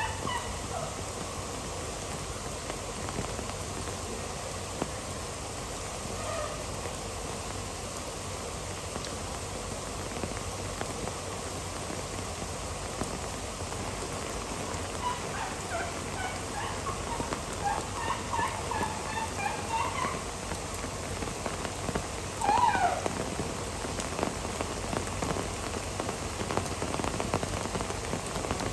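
Heavy rain pouring down steadily. A string of short high calls comes through the rain in the middle, and one louder sweeping call about two-thirds of the way in.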